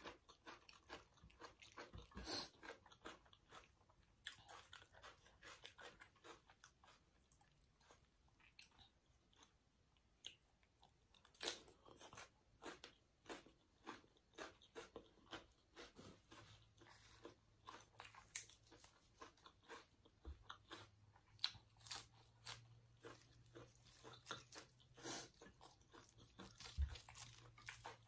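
A person chewing and crunching mouthfuls of glass noodle salad with raw vegetables such as red onion and spinach, close to the microphone: a continuous run of short, crisp crunches.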